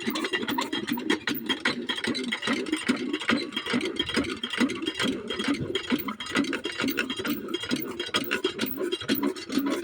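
Small single-cylinder 5 hp diesel water-pump engine running, with a fast, steady knocking beat.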